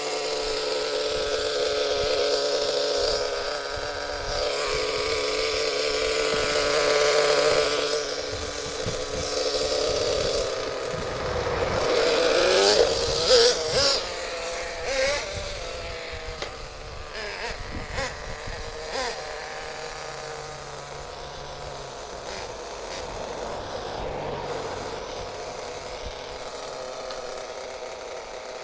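Small two-stroke nitro glow engine of a CEN MG10 1/10-scale RC monster truck running with a steady high buzz, then revved hard with quick rises and falls in pitch about twelve to fifteen seconds in, after which it runs fainter and uneven.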